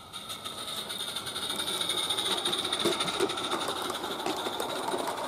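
Small gas-fired live-steam garden locomotive (Accucraft Caradoc) running, with a fast chatter of exhaust steam and a steady high hiss. It gets louder over the first couple of seconds, then eases a little.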